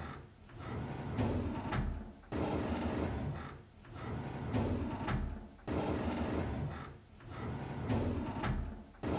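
A drawer sliding open, the same sound looping about every three and a half seconds. Each pass starts suddenly with a sliding rumble and small clicks, then tails off.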